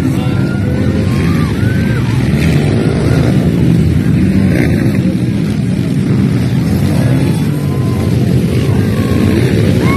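Motocross dirt bikes' engines running in a loud, steady, dense din, with faint voices over it.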